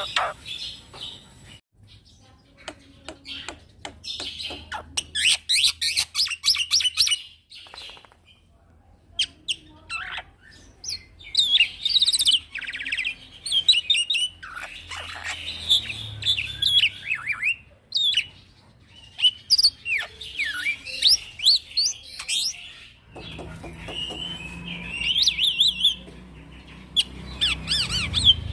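Young male black-winged myna (jalak putih) singing a long, varied song: quick runs of repeated chattering notes and sweeping whistled notes, with short breaks between phrases.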